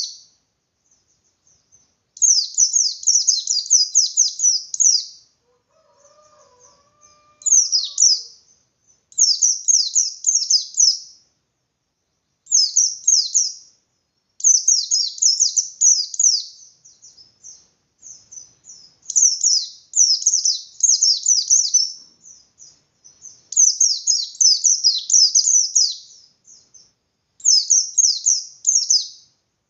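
Pleci bustomi white-eye singing its 'ngalas' song: rapid, high trills of downward-sweeping notes in bursts of one to three seconds, with short pauses between.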